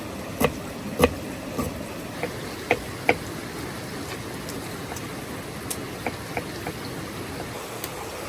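Steady rush of running water with a series of sharp knocks, about six in the first three seconds, then a few fainter taps.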